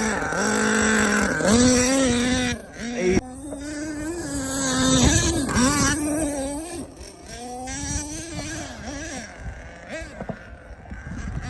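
HPI Savage X 4.6 nitro monster truck's small glow engine running at high revs, its pitch rising and falling as the throttle is worked. The engine drops off sharply about three seconds in and surges again around five seconds, then runs lower near the end.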